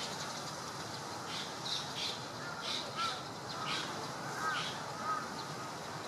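Wild birds calling: a string of short, high chirps about one or two a second, with a few faint curved whistles, over a steady background of outdoor noise.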